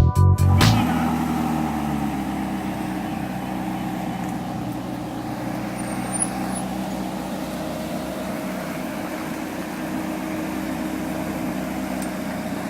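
Electronic music cuts off just under a second in, leaving a car engine running steadily at an even speed with no revving.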